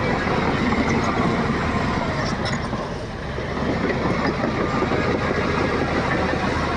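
Shantui crawler bulldozer at work: the diesel engine running under load with the steady clatter of its steel tracks, easing off briefly about three seconds in.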